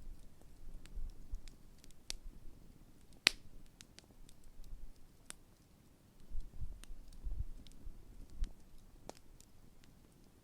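Large wood campfire crackling, with scattered sharp pops of burning wood, the loudest about a third of the way in, over a faint low rumble.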